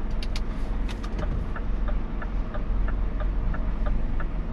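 Inside a Scania truck cab: the diesel engine rumbles steadily, with a few sharp clicks in the first second. From about one and a half seconds in, the indicator ticks evenly about three times a second as the truck turns around.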